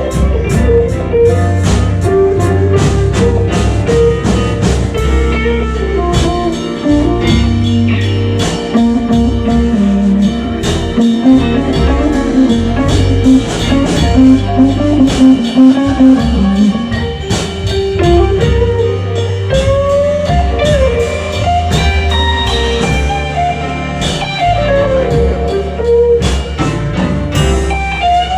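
Live blues band playing an instrumental passage: a guitar plays a melodic solo line over bass and drum kit keeping a steady beat.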